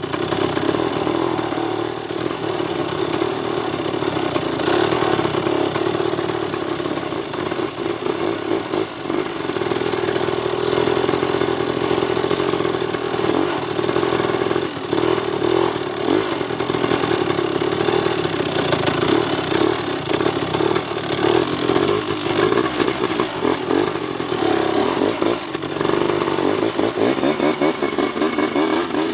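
Motorcycle engine running and pulling as the bike rides laden with coconut-wood planks, its pitch rising and falling with the throttle.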